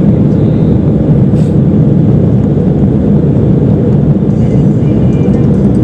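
Steady, loud cabin noise of an airliner in flight: the even rumble of the jet engines and the rushing air, heard from inside the passenger cabin.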